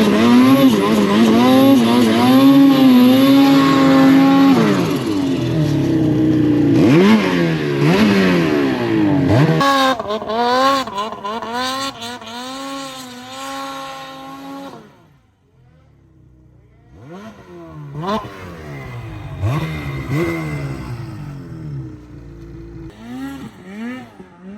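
Snowmobile engine revving: a steady high-rpm run close by for the first few seconds, then repeated rises and falls in pitch as the throttle is worked. Around the middle it fades almost to quiet, then revving comes back further off.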